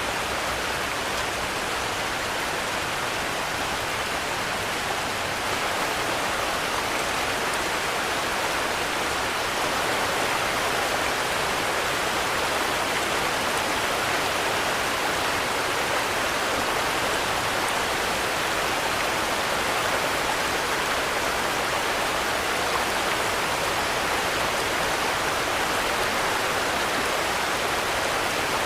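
Steady rain falling, an even dense hiss with no thunder, growing slightly louder in the first ten seconds.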